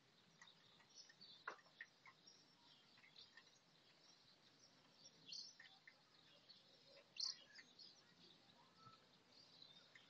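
Faint, scattered bird chirps: short high calls and a few quick falling notes, the clearest about a second and a half in and again about seven seconds in, over a quiet outdoor hiss.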